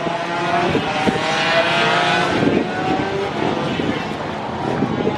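Pit bike engines running hard on track, several at once, their notes climbing steadily as the bikes accelerate.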